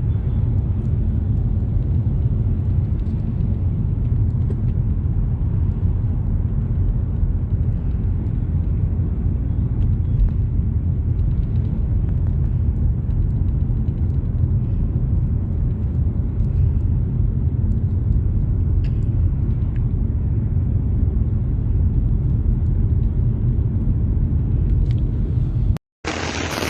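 Steady low rumble with a few faint clicks, cutting out abruptly near the end.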